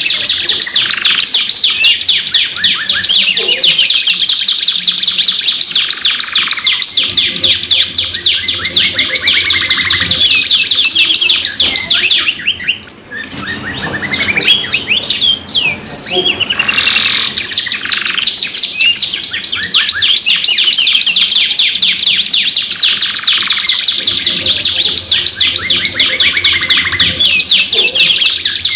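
Domestic canaries singing long, fast rolling trills and chirps without a break, thinning out briefly about halfway through.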